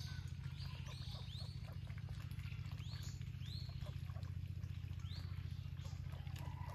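A small bird calling over and over with short chirps that rise and fall, over a steady low hum and scattered faint clicks.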